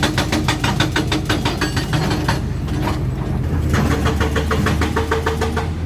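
Cat 320D2 excavator's diesel engine running, with a fast, even clatter of about eight clicks a second that breaks off about two and a half seconds in and starts again a second later.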